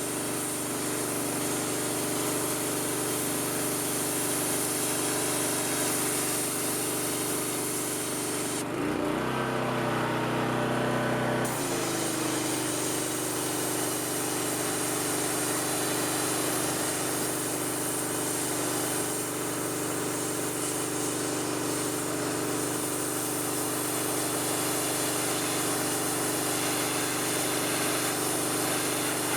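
Gas-engine pressure washer running steadily with its water jet hissing. About nine seconds in, the spray stops for two or three seconds while the engine keeps running at a changed note, then the spraying resumes.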